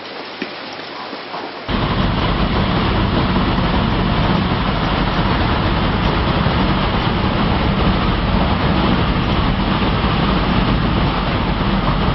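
A loud, steady rushing noise with a low rumble, cutting in suddenly about two seconds in.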